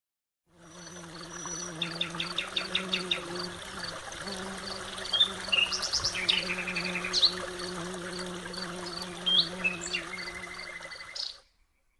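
Birds calling, with short fast trills and rising whistled notes, over a steady high ticking about twice a second and a low steady hum. It all cuts off suddenly near the end.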